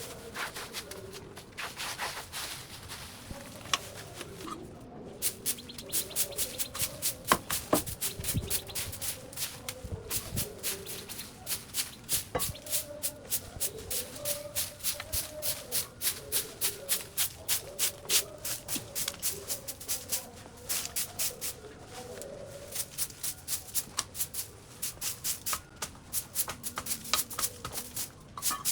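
Rhythmic brisk scraping strokes, about three a second, starting about five seconds in and breaking off briefly a few seconds before the end.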